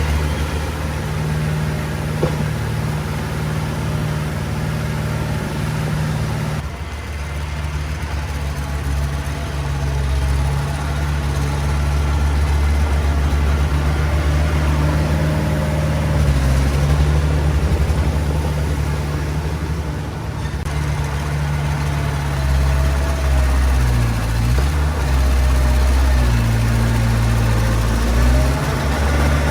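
Diesel engine of a Komatsu D20 bulldozer running steadily. In the second half its note shifts and wavers as the load changes while it pushes soil.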